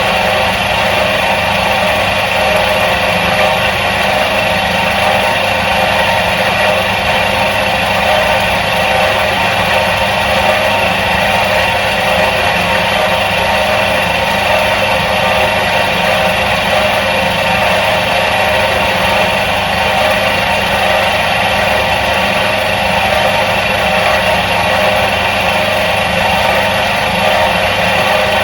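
The electric motor of a 1977 Soviet washing machine running at a constant speed, a steady hum under an even whir.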